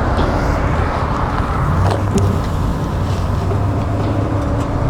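Steady road-traffic noise from passing motor vehicles, with a vehicle engine's hum coming in about two seconds in and rising in pitch near the end.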